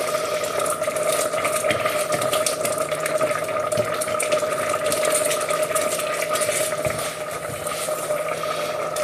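Sausage risotto cooking in a pan, a steady sizzling simmer with small scraping and clicking sounds of stirring, over a steady high hum.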